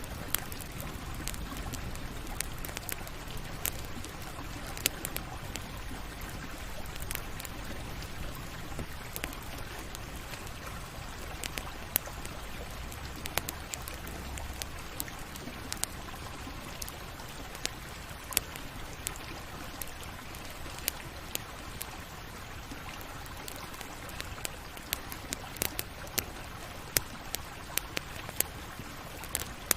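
Campfire crackling: a steady hiss and low rumble of burning wood, with frequent sharp snaps and pops at irregular intervals.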